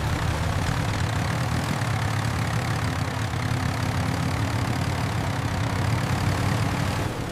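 A tractor engine running steadily with a low rumble, cutting in abruptly and easing off near the end.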